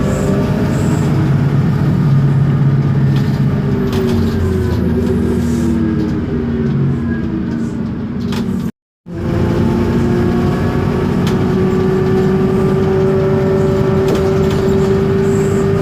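Isobus City 1200 city bus with a MAN D0836 LOH diesel and ZF Ecomat 6HP504C six-speed automatic, heard on board: engine and drivetrain whine falling in pitch as the bus slows. The sound cuts out for an instant about nine seconds in, then the whine rises slowly as the bus pulls away again.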